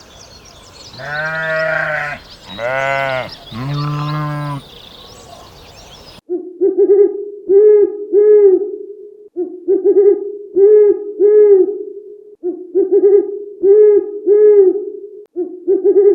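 Three loud bleats from a goat or sheep, each about a second long. The clip then cuts to a low hooting call repeated in three phrases of about three seconds each, with a steady rhythmic pulse.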